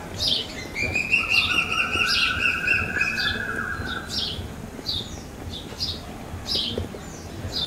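Birds chirping: short high falling chirps repeated about every half second, with two long held trilling notes at different pitches in the first half.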